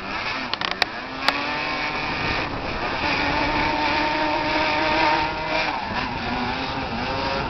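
Quad bike engine accelerating under throttle: its pitch climbs, holds steady for a few seconds, drops briefly about six seconds in, then climbs again. Two sharp clicks about a second in.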